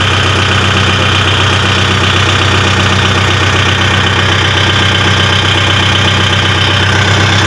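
Kubota MU4501 tractor's 2,434 cc four-cylinder diesel engine idling steadily at close range, run for a vibration test.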